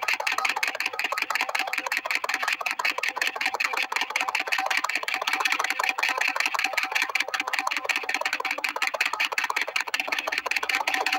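Steam engine running fast, a rapid, even beat of chuffs and clatter.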